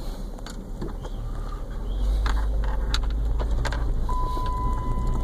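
Car running, heard from inside: a steady low engine and road rumble that grows louder about two seconds in, with a few light clicks. A steady high tone begins about four seconds in.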